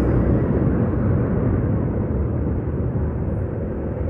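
Steady low rumble of road noise, with no distinct events.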